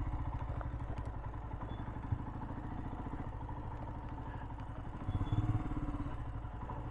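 Royal Enfield Himalayan's single-cylinder engine idling with an even, fast beat, given a short blip of throttle about five seconds in.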